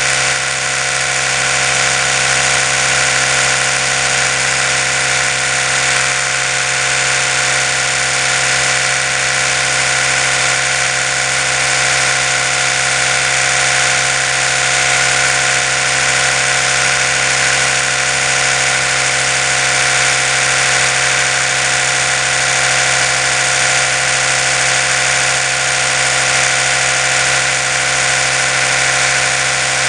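Oral-B electric toothbrush running continuously, its motor giving a steady, unchanging hum with a hiss above it.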